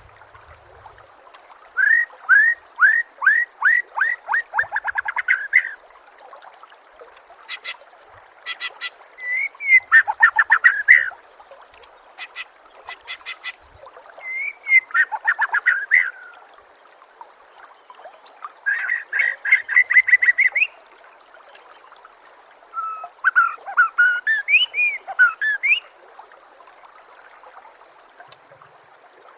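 White-rumped shama (murai batu) singing: five bursts of quick, repeated upward-sweeping whistled notes, with short pauses between them. A faint steady hiss lies underneath.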